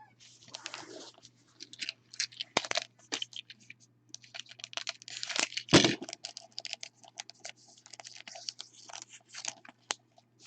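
Trading card pack wrappers crinkling and tearing open as cards are handled, an irregular stream of short crackles and rustles, with one louder knock about six seconds in.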